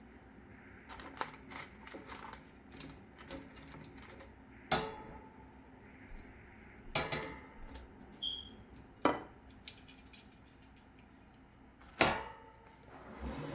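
Dishes and cutlery clinking and knocking as food is handled and served: several sharp knocks with lighter ticks between, and a brief ring just after the middle.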